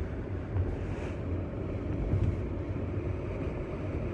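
Steady road and engine rumble heard from inside a car's cabin while cruising at a constant speed on cruise control.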